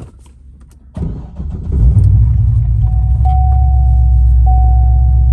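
2006 Chevrolet Corvette's 6.0 L LS2 V8 with Dynatech headers, cranked by the starter about a second in, catching almost at once and settling into a steady idle. From about three seconds in a steady electronic chime tone sounds over it, broken briefly about every second.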